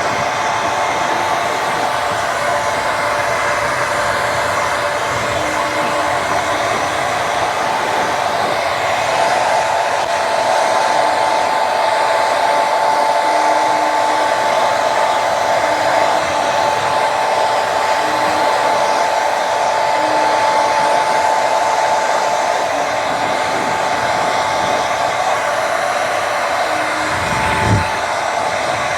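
Hair dryer blowing steadily, a constant whine over the rush of air. There is a brief low thump near the end.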